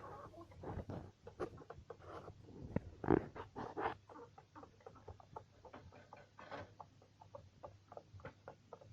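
Poultry pecking at a feed mash, beaks tapping quickly and irregularly on the feed and its container, with one louder knock about three seconds in.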